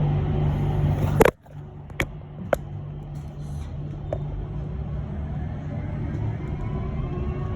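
Electric bus cabin noise: a steady hum with a constant low tone from the drive and road. About a second in, a sharp click, after which the noise drops suddenly to a lower level, followed by two more short clicks.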